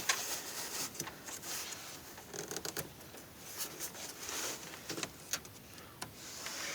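Scattered light clicks, taps and rustles of plastic air-intake parts being handled and worked loose under a truck's hood, with the engine off.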